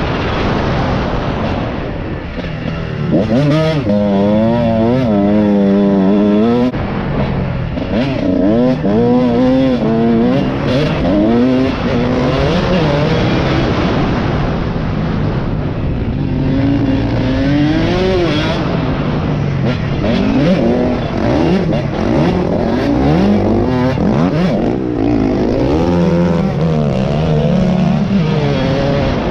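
Dirt bike engine revving hard while riding, its pitch climbing and dropping again and again as the throttle opens and closes and it shifts, heard from a helmet-mounted microphone with a steady rushing noise underneath.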